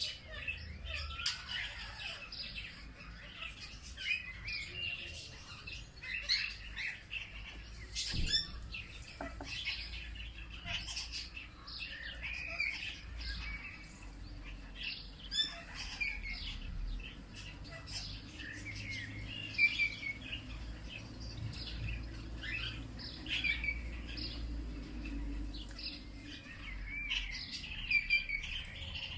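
Several small songbirds chirping and twittering, with many short overlapping calls and trills, over a faint low rumble. A sharp click comes about eight seconds in.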